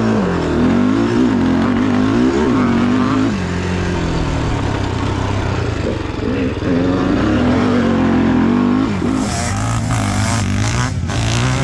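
Dirt bike and ATV engines revving hard, launching off a standing start and accelerating through the gears. The pitch climbs and drops again and again with each shift.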